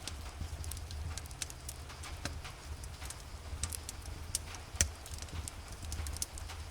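Fireplace crackling: irregular sharp pops and snaps of burning wood over a low steady rumble, with one louder pop nearly five seconds in.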